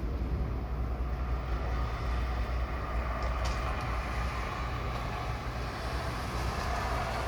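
Long, steady low rumble of rolling thunder from a nearby thunderstorm.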